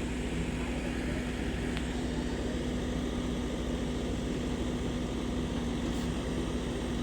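Heavy earthmoving machine diesel engine running steadily under load: a constant low rumble with a steady hum.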